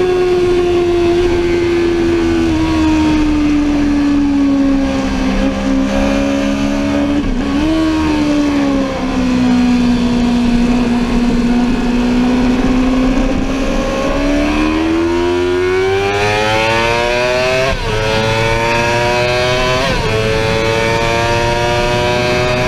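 Sportbike engine at speed on a racetrack. The revs fall steadily as the bike slows, with a short blip about a third of the way in. It then accelerates hard, the revs climbing through three quick upshifts near the end.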